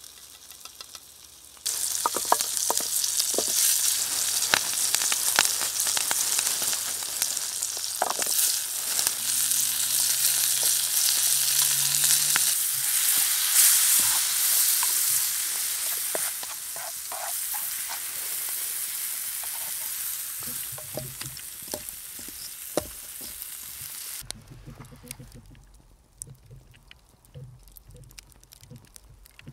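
Food frying in a hot pan: a loud sizzle with scattered pops and crackles that starts suddenly about two seconds in, eases off gradually, and stops abruptly near the end.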